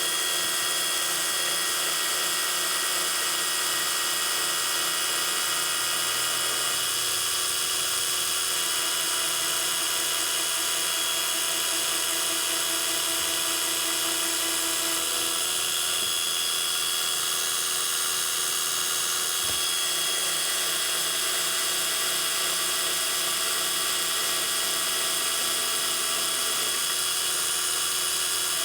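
Metal lathe running steadily with a high-pitched motor whine, turning an acrylic pen blank.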